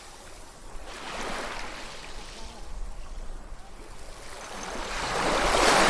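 Sea waves washing in: a small wave about a second in, then a larger wave building and breaking near the end.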